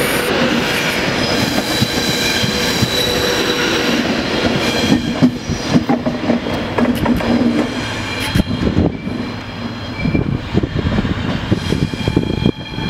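Class 390 Pendolino electric train 390127 pulling out and rolling past, its wheels clicking over the rail joints under a steady high whine. The clicks come more often from about five seconds in as the coaches pass.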